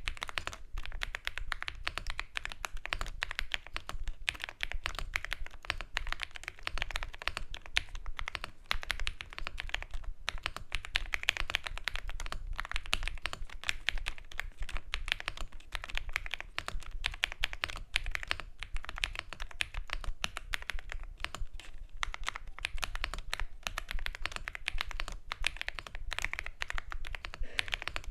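Continuous fast typing on a Mchose Z75S mechanical keyboard, a rapid stream of key clicks.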